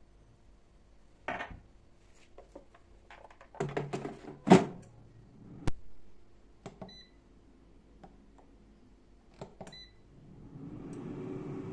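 Kitchen handling clatter with a few sharp knocks. Then short electronic beeps from an air fryer's touch panel, and the air fryer's fan starts up, its hum rising in pitch near the end.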